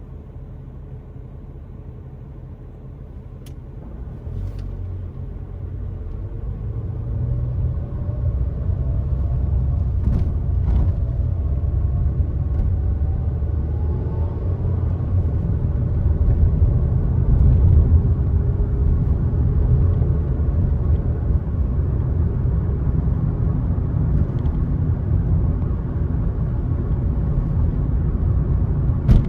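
Car driving on the road: a low engine and tyre rumble that grows louder over the first several seconds as the car picks up speed, then holds steady, with a faint engine note sliding up and down and a few light clicks.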